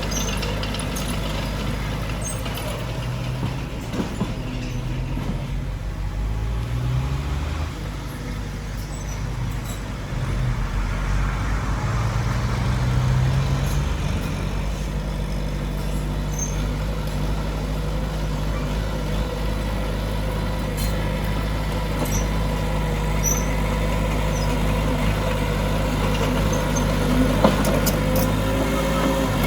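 Heavy diesel earthmoving machinery running under load, its engine note rising and falling a few times in the first half, then holding steady. Scattered metallic squeaks and clicks run through it, with one sharp knock near the end.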